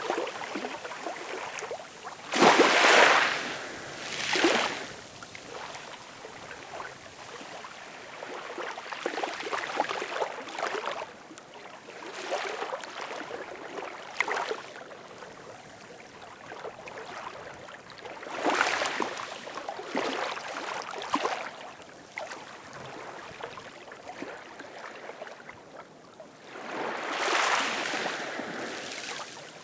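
Ocean waves washing in and breaking in irregular surges, the loudest about three seconds in, with others near the middle and near the end, over a steady background wash.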